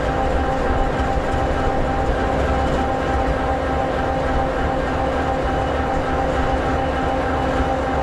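EMD SD60E locomotive's 16-cylinder two-stroke EMD 16-710G3B diesel idling: a steady low rumble with several constant humming tones over it.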